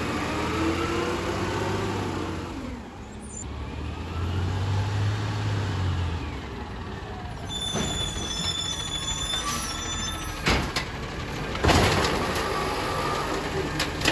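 Garbage truck engine running with a low steady tone, joined about 7.5 s in by a high steady whine. Two sharp loud bursts of noise come near the end.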